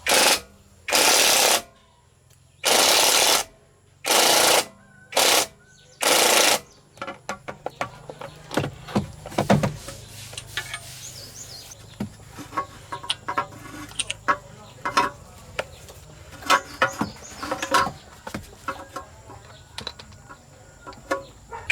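Six short, loud bursts of hissing noise with pauses between them, then a long run of irregular clicks and taps.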